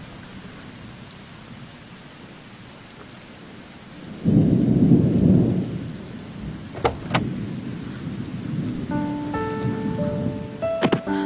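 Rain falling steadily, with a loud low rumble of thunder about four seconds in. Two sharp clicks come about seven seconds in, and soft music notes enter near the end.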